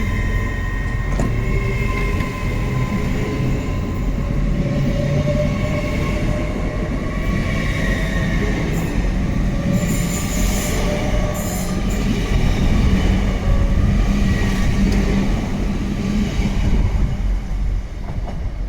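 A train running through the station with a steady low rumble, and high drawn-out squealing tones that slowly shift in pitch. There is a short spell of high hiss about ten seconds in.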